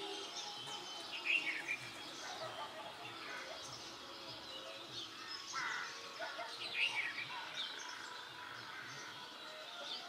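Birds chirping in short, scattered calls over a steady background hiss, with the busiest bursts about a second in and again around seven seconds.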